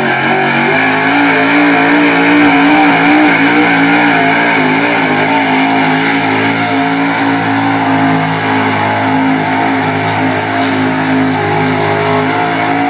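Super stock 4x4 pulling truck's engine held at high revs under full load while it drags the weight sled. It holds a steady, slightly wavering pitch, then drops away sharply at the end as the pull finishes.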